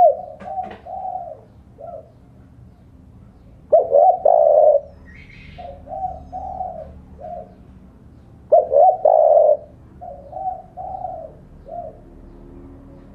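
Spotted dove cooing its territorial call to challenge a rival. A loud coo phrase comes about every four to five seconds, each followed by a run of softer, shorter coos.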